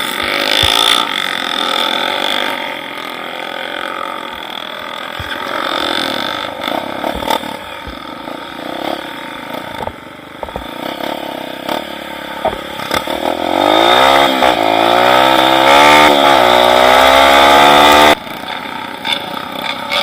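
Small motorcycle engine running, revving up with a climbing pitch for several seconds before cutting off suddenly near the end.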